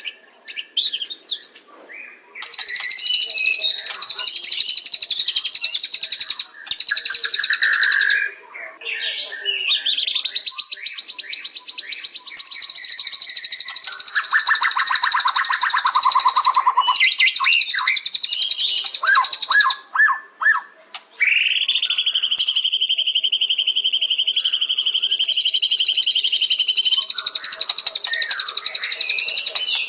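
White-rumped shama (murai batu) singing: long runs of rapid, high chattering trills broken by lower whistled phrases, with a long steady whistled note about two-thirds of the way through and a few short pauses between phrases.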